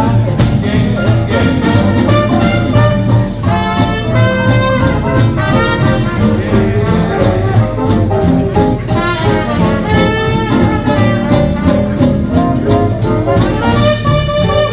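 Live hot-jazz swing band playing an instrumental passage, with brass horns carrying the melody over a steady swing beat.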